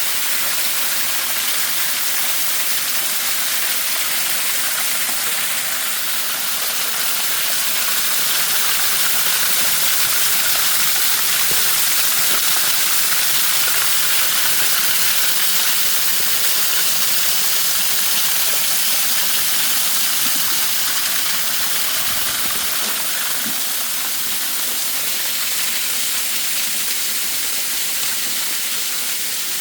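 Waterfall: a steady, loud rushing hiss of falling water that swells slightly about midway through.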